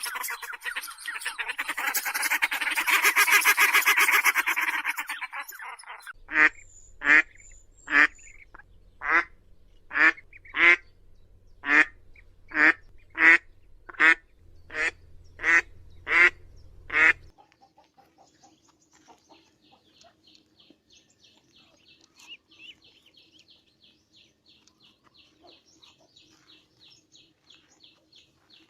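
Domestic waterfowl calling. First a loud clamour of many overlapping calls for about five seconds, then about thirteen separate, evenly spaced calls at roughly one a second, after which only faint background sound remains.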